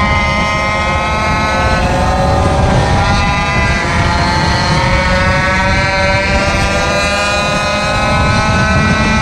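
Small gasoline engine running under way, its pitch easing down and then climbing again with the throttle, with heavy wind buffeting the microphone.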